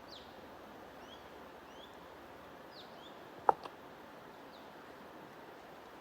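Small birds chirping in short, quick up- and down-sweeping notes over a steady rushing background noise. A single sharp click about three and a half seconds in is the loudest sound.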